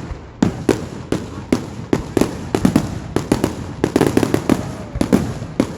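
Fireworks going off: a dense, irregular string of sharp bangs and cracks, about four a second.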